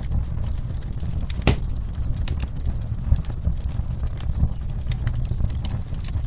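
Wood fire in a fireplace crackling, with frequent sharp pops and one louder pop about a second and a half in, over a steady rush of falling rain.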